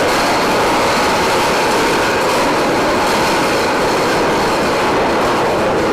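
Anchor chain of a Nimitz-class aircraft carrier paying out fast as the anchor drops: a loud, steady, dense rattling clatter of heavy links.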